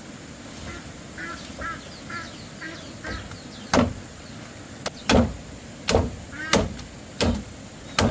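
Short bird calls repeated several times, then six sharp blows about two-thirds of a second apart, each one loud and sudden.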